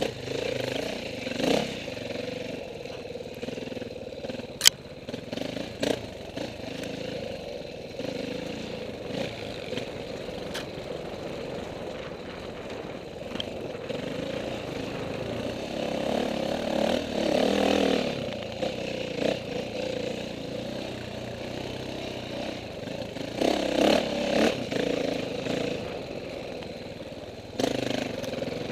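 Dirt bike engines running and revving, swelling louder a little past halfway and again near the end, with a single sharp click about five seconds in.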